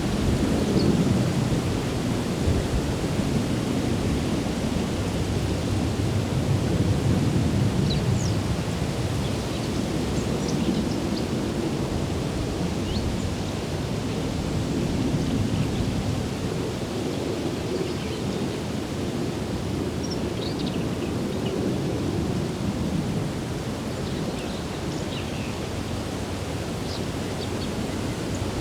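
Outdoor ambience dominated by a steady low rumble that swells and fades every few seconds, with faint, scattered high bird chirps over it.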